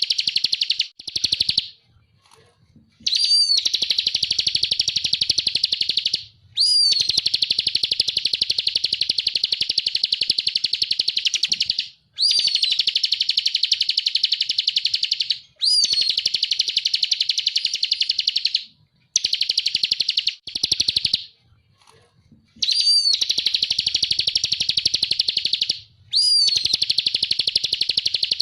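Bar-winged prinia (ciblek) singing its rapid, buzzing 'ngebren' trill in long bouts of three to five seconds. Each bout opens with a short rising note, with brief pauses between bouts.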